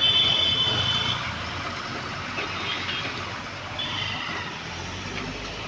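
Traffic noise on a busy road, with a high steady beep from a vehicle for about a second at the start and a shorter one near four seconds in.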